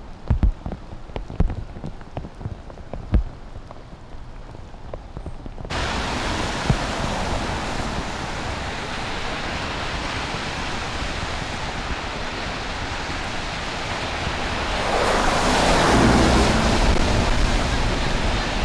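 Heavy rain. For the first few seconds scattered drops tap close by over a light hiss. About six seconds in this switches abruptly to a dense, steady rush of downpour and water, which swells louder for a couple of seconds near the end.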